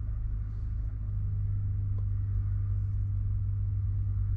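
Steady low hum of a lorry's diesel engine idling, heard inside the cab, growing a little louder about a second in.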